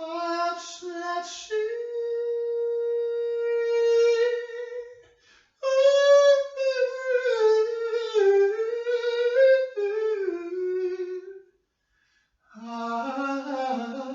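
A single voice singing slow, wordless held notes: one long steady note, then a wavering, sliding melody. After a short pause near the end, a lower phrase begins.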